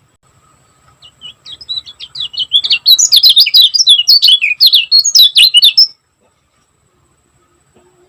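Kecial kuning, a small yellow white-eye songbird, singing a fast, tightly packed run of high chirping notes. The song builds from about a second in, grows loud and dense, then stops abruptly about two seconds before the end.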